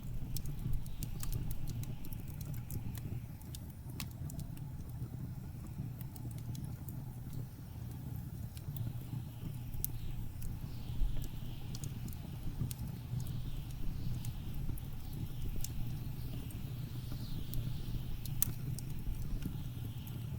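Wood fire crackling, with scattered sharp pops, over a steady low rumble of blizzard wind that swells in gusts.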